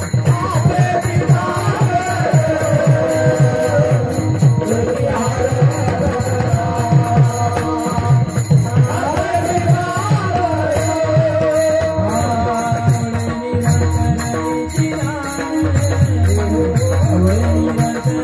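Marathi devotional kirtan music: a sung, gliding melody over a fast, steady drum beat, with small cymbals or bells jingling in time.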